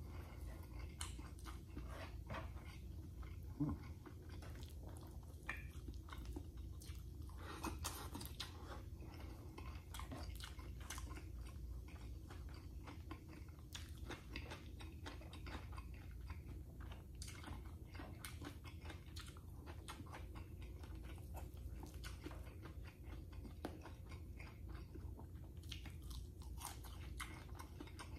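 Close-up chewing and biting of a man eating corned beef, garlic rice and fried tuyo (dried salted fish) by hand, with wet mouth clicks and occasional crunches, over a steady low hum.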